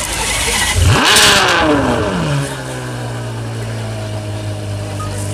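2011 Ferrari 599 GTO's V12 engine firing up. The revs flare sharply about a second in, then fall away and settle into a steady idle.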